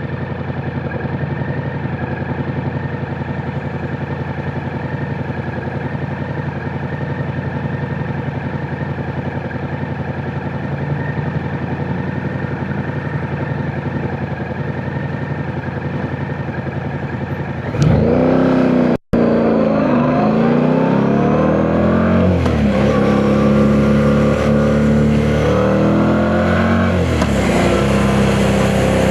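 Yamaha MT-07's 689 cc parallel-twin engine running steadily for a long stretch, then opening up hard about two-thirds of the way in. It revs up through several gears, the pitch climbing and then dropping back at each upshift.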